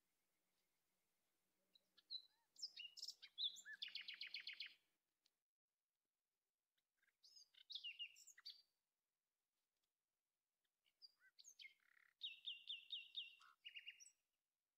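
A songbird singing three short phrases of quick high chirps, each ending in a fast trill of repeated notes, with silence between the phrases.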